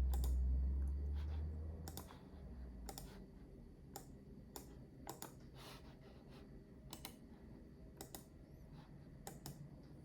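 Scattered clicks of a computer mouse and keyboard, one or two a second, as the PC is being shut down. A low rumble at the start dies away about two seconds in.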